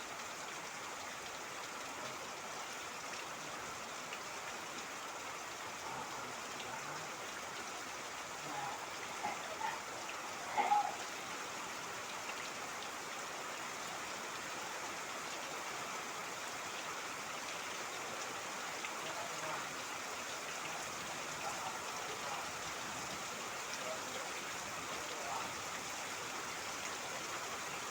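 Steady rain falling, with water trickling and splashing. A few brief louder sounds stand out around ten seconds in.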